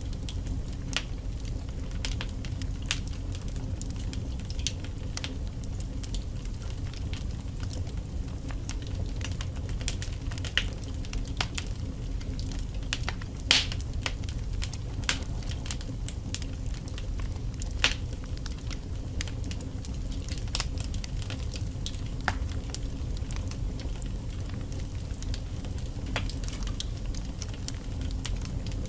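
Wood fire burning in a fireplace: a steady low rumble of the flames with irregular sharp crackles and pops from the logs, a few louder pops about halfway through.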